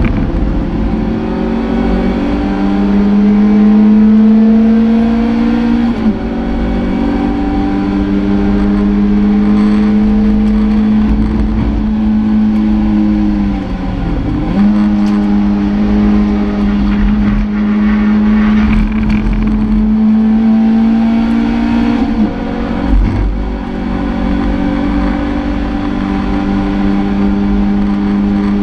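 Toyota MR2 race car's engine heard from inside the cockpit, running hard with revs climbing slowly. The pitch drops sharply three times, about six seconds in, around halfway and a few seconds after that, as the driver shifts gear or lifts.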